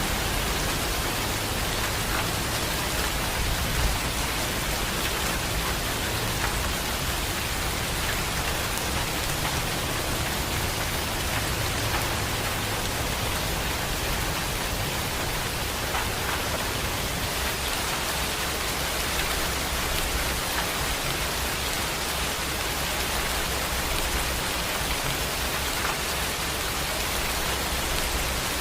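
Heavy rain pouring steadily, with many drops ticking on a surface and a low rumble underneath that eases about two-thirds of the way through.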